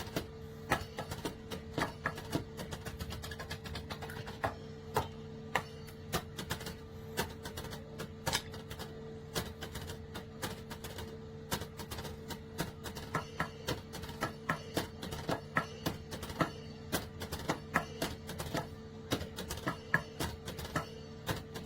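Drumsticks striking the pads of a Donner electronic drum kit: a quick, irregular run of sharp clicks and taps over a steady low hum.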